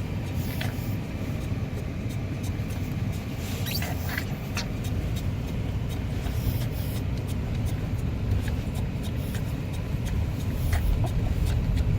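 Car driving, heard from inside the cabin: a steady low road and engine rumble, with a few small scattered clicks and ticks.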